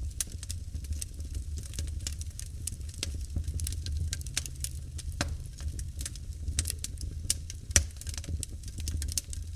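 Wood fire burning in a fireplace, crackling and popping irregularly over a steady low rumble of flames, with one sharper pop about eight seconds in.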